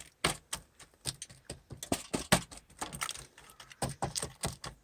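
A fork clicking and scraping against a foil-lined camping pot as ground meat is pressed down into it, making a steady run of irregular small clicks and ticks.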